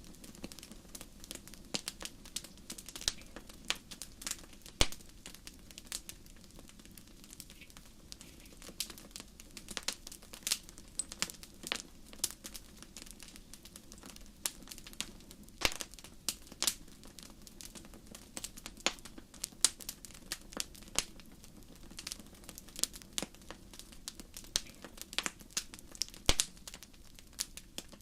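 Fire crackling: a steady stream of irregular sharp pops and snaps over a low, even rumble.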